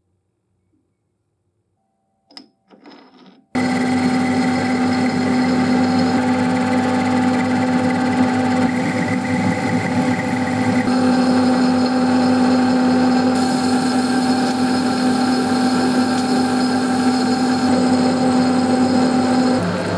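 An electric workshop machine switches on with a sudden start after a few faint clicks, then runs steadily with a fixed hum and whine. Its higher tones shift a little partway through.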